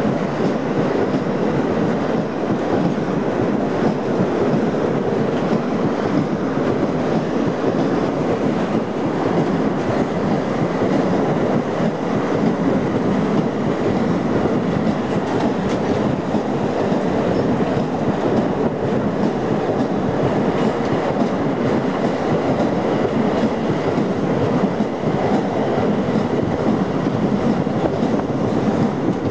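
A train rolling past close by for the whole stretch: a steady, loud rail rumble of wagons on the track.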